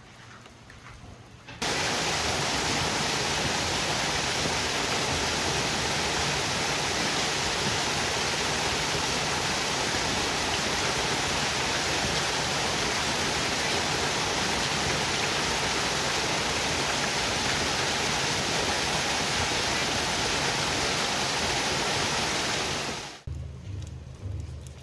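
Heavy rain pouring down as a loud, steady hiss. It cuts in suddenly about a second and a half in and cuts off abruptly a little before the end.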